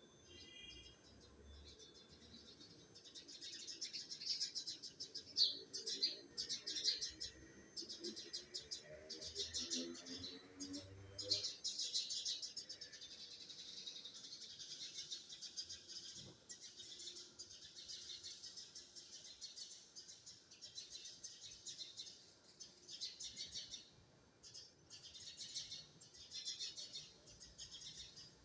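A small bird chirping: rapid, high-pitched chirps in runs with short breaks, going on nearly throughout.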